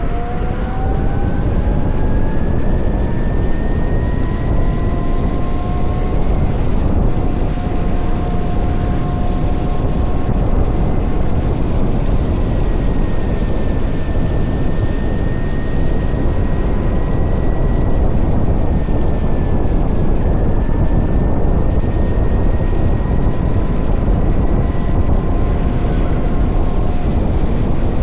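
VMoto Stash electric motorcycle riding, its drive motor whine rising in pitch over the first few seconds as it accelerates and then holding steady, over a heavy rush of wind and road noise.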